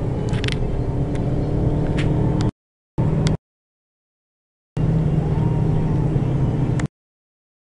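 In-cabin engine and road noise of an Abarth 500C's 1.4-litre turbocharged four-cylinder driving steadily, with a few light clicks. The sound cuts out abruptly to dead silence three times, the last near the end: dropouts in the recording's audio.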